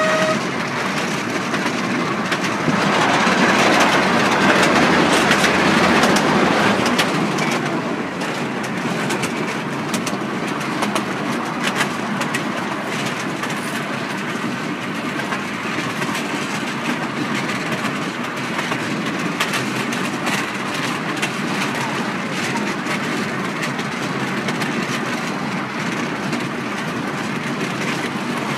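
Miniature railway train running along its track: a steady rolling rumble with the wheels clicking over the rail joints. It swells louder for a few seconds about three seconds in.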